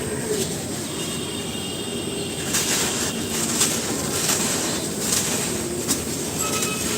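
Dry cement lumps and slabs crumbling by hand in a steady gritty crunch, with a few sharper cracks and snaps about halfway through.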